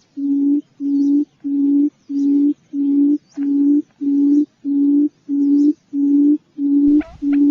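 Quail lure call: one low hooting note repeated evenly, just under two a second, with each note lasting under half a second. Near the end, brief higher chirps and a low rumble join in.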